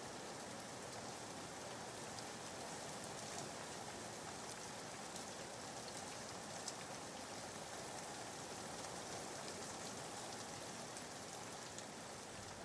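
Steady soft rain ambience, an even hiss with faint scattered drop ticks, used as soothing white noise.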